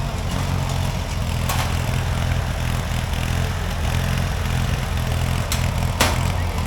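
Small riding-lawn-mower engine running steadily at a low, idle-like speed, with a few sharp clicks or knocks, the loudest about six seconds in.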